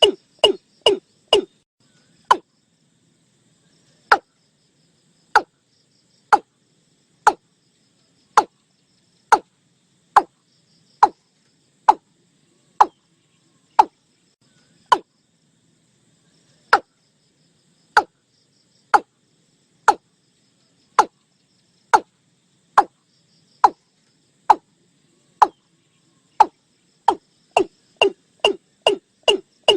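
Watercock calling, a series of short hollow notes. They come quickly, about three a second, at first, slow to about one a second, and speed up again to about three a second near the end.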